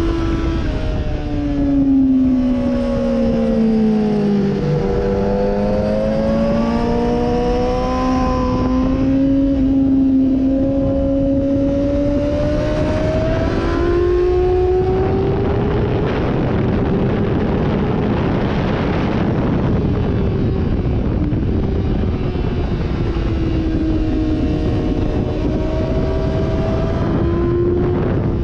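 Sportbike engine on track, its pitch falling under deceleration about a second in, then climbing steadily as it accelerates. Midway a loud rush of wind covers the engine for several seconds, and near the end the engine note dips and rises again.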